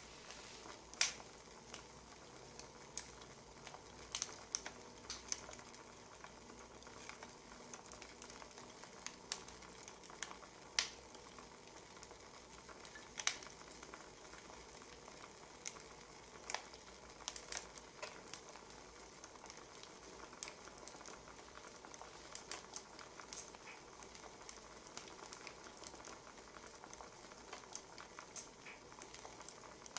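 Wood fire crackling: irregular sharp pops and snaps, a few louder than the rest, over a faint steady hiss.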